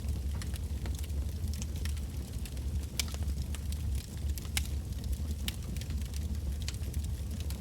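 Wood bonfire burning with a steady low rumble and irregular sharp crackles and pops of burning firewood, a few louder snaps among them.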